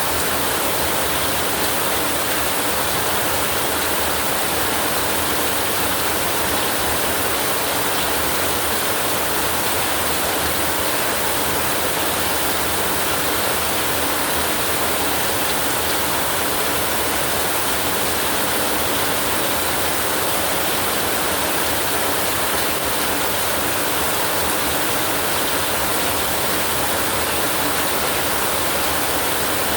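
Steady rain: an even, unbroken hiss with no thunder.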